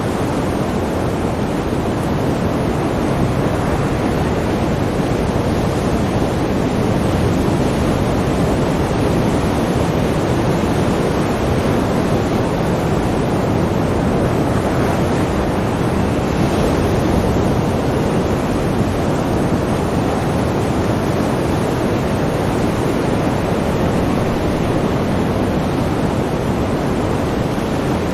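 Sea waves and surf washing continuously in a steady, dense rush with no distinct single breakers.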